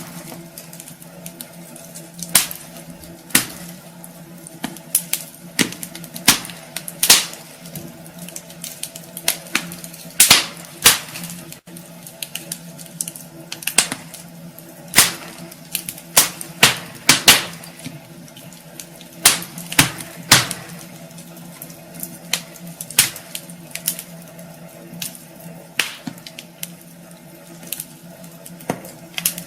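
Wood fire crackling in a fireplace: irregular sharp pops and snaps from the burning logs, some loud, over a steady low hum.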